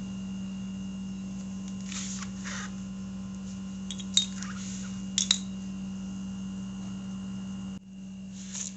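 Steady low electrical hum with a faint high whine over it, broken by a few light clicks and rustles of small parts being handled.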